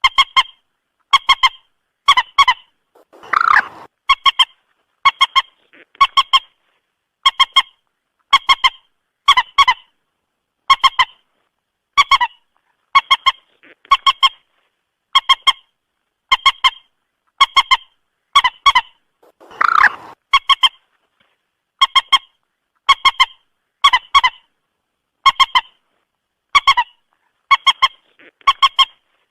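Moorhen calling over and over, a short stuttering call about once every second, with silence between. Twice, near 3 seconds in and near 20 seconds in, a longer, harsher call breaks in.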